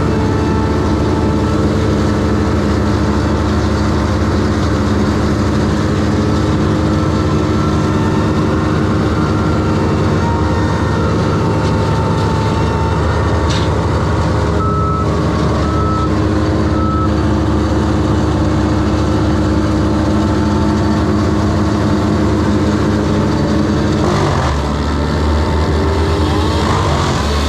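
Heavy engine running steadily with a low, even drone. Three short high beeps sound in a row about midway, and the engine note shifts near the end.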